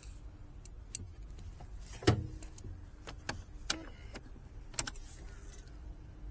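A series of sharp mechanical clicks and knocks, about seven in all, the loudest a thud about two seconds in, over a faint low rumble: handling noises just before a motor scooter is started.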